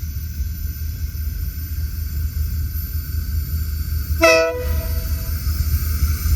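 Diesel-electric locomotive sounding one short horn blast of several notes at once about four seconds in, the loudest moment, over a steady low rumble.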